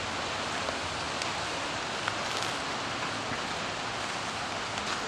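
Steady outdoor noise: an even hiss with a few faint, scattered ticks.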